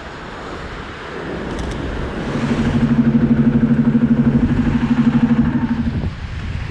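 Wind on the microphone, then a motor vehicle's engine running with a steady, rapidly pulsing low hum for about four seconds, cutting off suddenly near the end.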